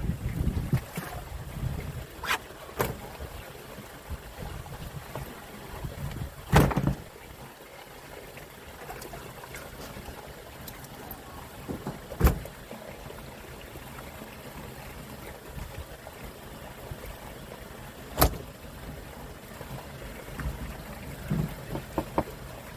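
Steady noise aboard a small fishing boat at sea, broken by several sharp knocks on deck, the loudest about six and a half seconds in, with a few smaller ones near the end.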